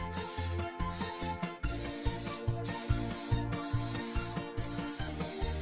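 Paint spraying onto a toy race car in about five hissing bursts of roughly a second each, over background music with a steady beat.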